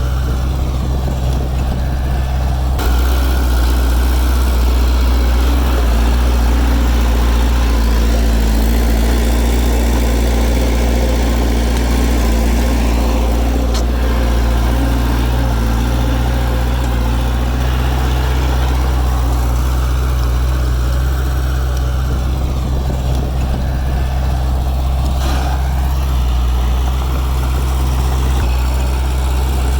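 Heavy diesel engine of earthmoving machinery running steadily with a deep drone, getting a little louder about three seconds in.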